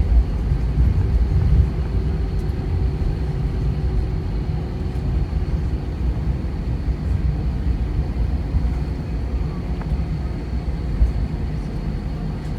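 Cabin noise aboard an Airbus A320 airliner: a steady low rumble of the engines and airframe, a little louder in the first two seconds and then settling, with a faint high whine held throughout.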